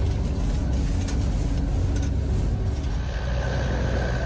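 Snowcat running steadily with a low engine drone; about three seconds in a higher whine joins.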